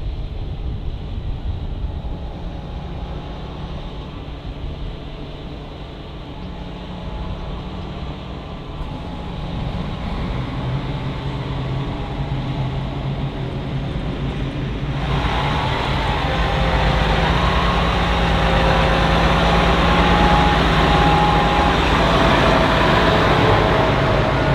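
Heavy diesel farm machinery running steadily with a low rumble and engine tones, growing louder, with a higher whine joining, about fifteen seconds in.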